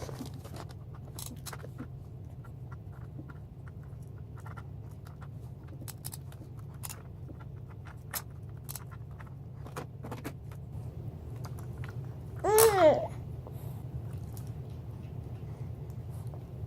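A baby's brief babbling cry, a short pitched sound that dips in pitch, about three-quarters of the way through. Before it there are faint scattered clicks and rustles of handling over a steady low hum.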